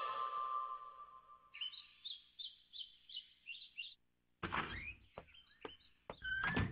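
A fading tail of music, then a quick run of about seven high chirps like a small bird calling, roughly three a second, followed by a few dull thuds and clicks.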